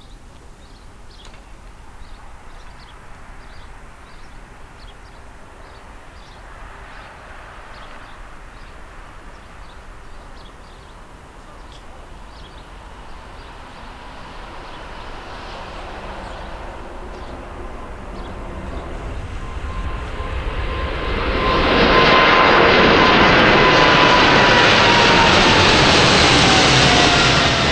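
Airliner approaching and passing close by, its engine noise building over several seconds to a loud peak near the end, with a whine that slides down in pitch as it goes past.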